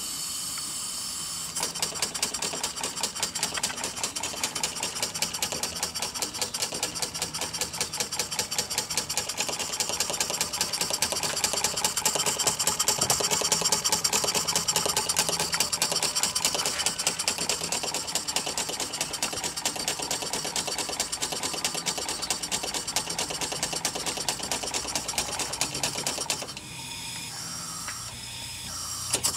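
Home-made model steam engine, a Reeves Trojan copy with an O-ring in the cylinder and a plain slide valve, running on compressed air. Air hisses in first, then the engine settles into a fast, even exhaust chuff and clatter. It eases off for about two seconds near the end, then picks up again.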